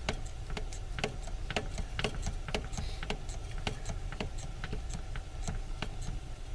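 Hilmor compact swage tool working on the end of a copper tube, clicking at a steady two or so clicks a second as the tube end is expanded into a swage.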